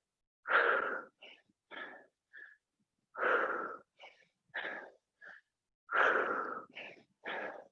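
A person breathing hard from exertion: three loud, forceful breaths about every three seconds, with shorter, softer breaths between them.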